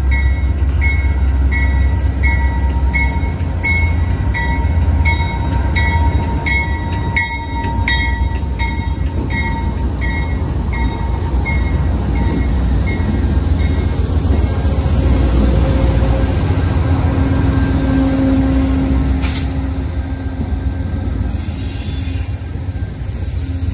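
Amtrak GE P42DC diesel locomotive pulling a passenger train slowly past the platform, its diesel engine running with a deep rumble. Its bell rings about twice a second for the first dozen seconds or so. After that the Superliner cars roll by, with a brief steady wheel squeal a little past the middle.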